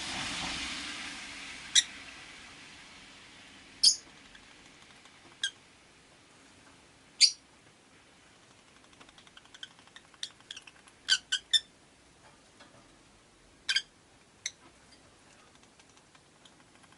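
Rosy-faced lovebirds chirping from a cage: single short, sharp chirps every few seconds and a quick run of them about two thirds of the way in. A broad rush of noise fades out over the first few seconds.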